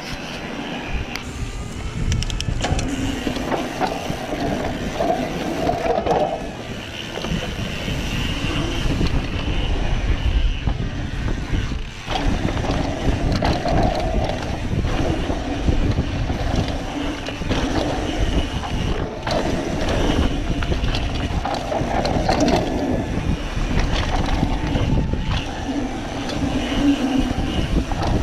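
A mountain bike being ridden down a dirt trail: tyres rolling and the bike rattling over the ground, heard as a continuous rushing noise that rises and falls.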